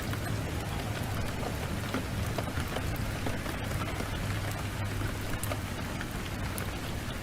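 Heavy rain pouring steadily, mixed with the scattered sharp crackles of a wood fire and a low steady rumble underneath.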